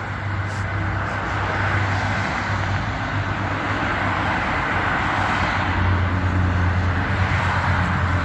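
Heavy truck's diesel engine running with a steady low drone, growing a little louder in the second half.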